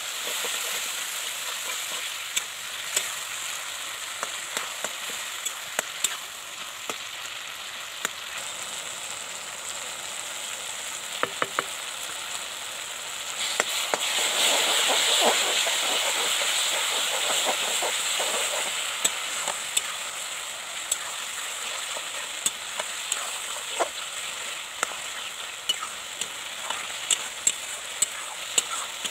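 Tomato-and-spice masala sizzling in oil in a kadhai, with a metal spatula stirring and scraping against the pan in frequent sharp clicks. The sizzle grows louder about halfway through, as the roasted ground masala is added.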